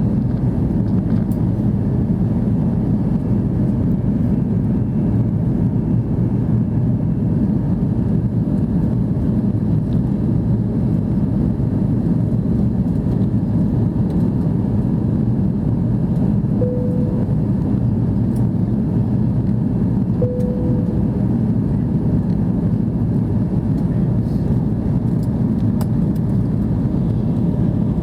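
Steady low rumble inside the cabin of an Airbus A330-300 in flight, from engine and airflow noise. Two short mid-pitched tones sound about four seconds apart a little past the middle.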